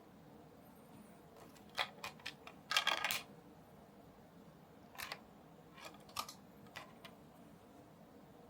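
Small hard parts and tools being handled while building a model kit: a few sharp clicks, a short clatter about three seconds in, then scattered clicks.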